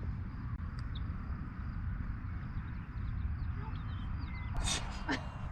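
Wind rumbling on the microphone, with a few faint bird chirps about halfway through and a short rustling noise near the end.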